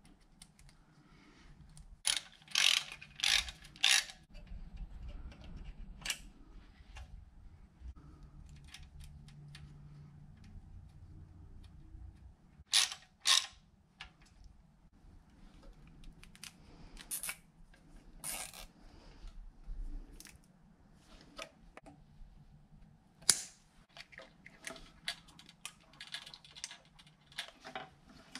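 Ratchet wrench clicking in short spells as bolts are run in, with scattered clinks of tools and metal parts. The loudest bursts come in a group of four strokes a couple of seconds in and in pairs later on.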